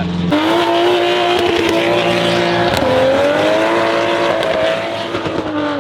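Car engine revving and held at high revs. The sound starts suddenly just after the start, and its pitch dips and then climbs again about three seconds in.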